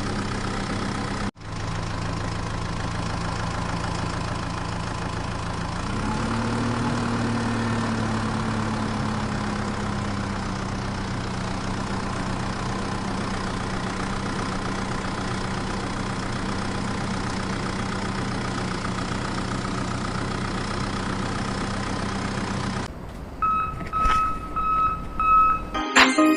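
Tractor engine idling steadily, its pitch rising slightly for a few seconds around six seconds in and then settling. Near the end the engine sound stops and a repeating electronic beep follows.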